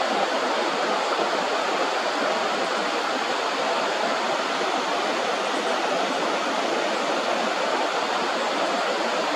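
Steady rushing of flowing river water, an even hiss without a break.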